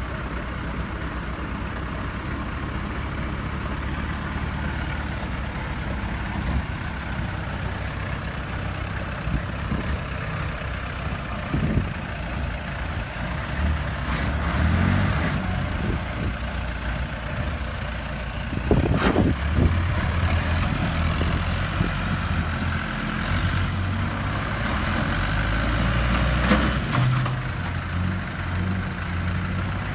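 Heavy diesel vehicle engine running steadily near idle. Its note swells louder a few times, most of all a little over halfway through and again near the end, and there is one short sharp sound in between.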